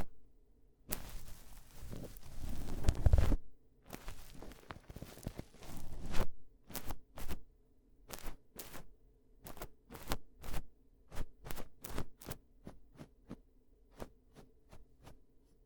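Ear-cleaning ASMR sounds close to the microphone: two stretches of scratching and rubbing, the first the loudest, then a run of short taps about two a second that fade toward the end.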